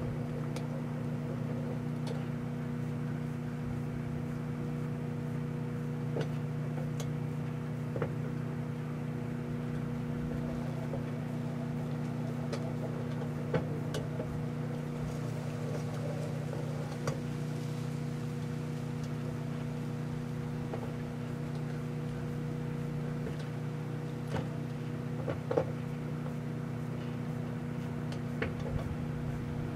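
Microwave oven running with a steady hum, with a few faint clicks here and there while it heats a metal can of Spam.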